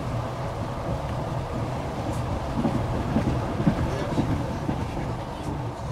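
Train running along the track, heard from inside the carriage: a steady low rumble of wheels on rails.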